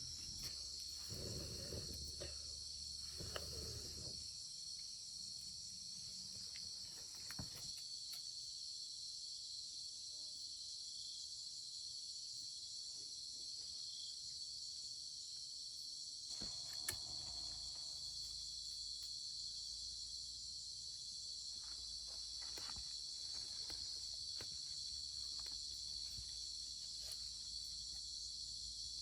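Steady high chirring of crickets and other insects, with a few soft rustles and knocks near the start and about halfway through.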